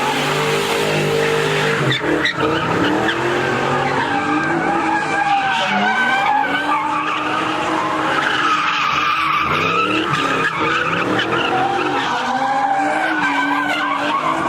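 Ford Mustang revving up and down again and again while its tires squeal and skid on the pavement.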